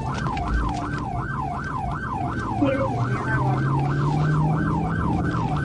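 Police car siren in yelp mode, sweeping rapidly up and down in pitch about three times a second, with a low steady hum beneath it.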